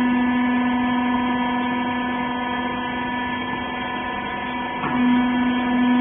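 Wiper rag baler's hydraulic power unit running with a steady electric motor and pump hum. About five seconds in, the tone dips briefly and comes back a little louder.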